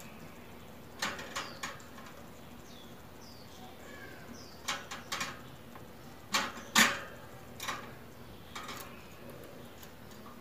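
Scattered sharp taps and clicks, about ten in all, from pet birds moving about, with a few faint, short falling chirps in between.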